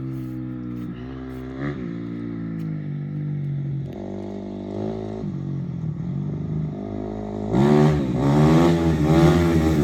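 Dirt bike engine revving as it is ridden, its pitch climbing and dropping again and again with the throttle. It gets much louder about three quarters of the way in as the bike comes close.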